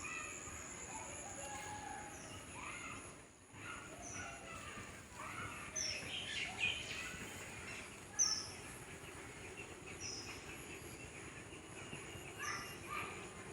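Birds calling: short, high chirps that drop in pitch, repeated every second or two, over lower chattering calls, with a steady faint high tone underneath.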